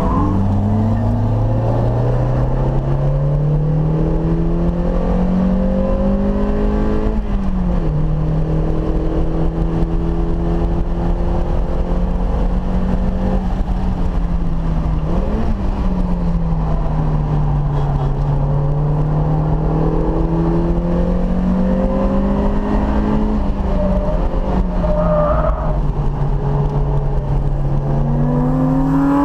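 Mazda Miata's four-cylinder engine at speed on a road course, heard from inside the cabin. The revs climb for about seven seconds, then drop sharply at an upshift. After that they hold fairly level, with several dips and climbs in pitch, over steady road noise.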